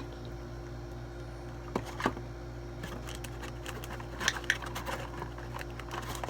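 A spoon stirring a thick slime mixture of glue and flour in a bowl: two sharp clicks, then a run of irregular clicks and scrapes, the loudest near the middle, over a steady low hum.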